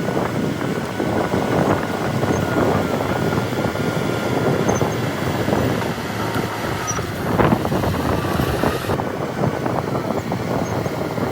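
Heavy earthmoving machinery working: a diesel engine running under a constant clatter, with a faint thin whine over it and one sharper knock about seven and a half seconds in.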